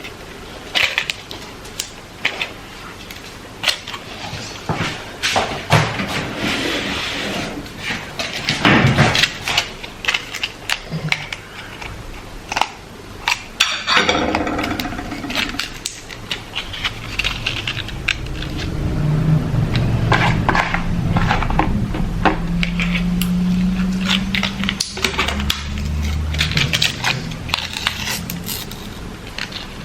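Household kitchen clatter: dishes and utensils knocked, scraped and set down in many short clicks and knocks. A low hum runs for several seconds in the second half.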